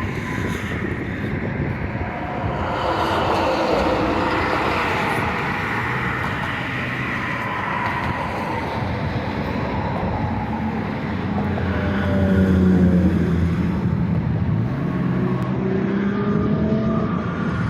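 Diesel locomotive engine running, a steady drone whose pitch shifts and glides as it passes. It is loudest about twelve to thirteen seconds in.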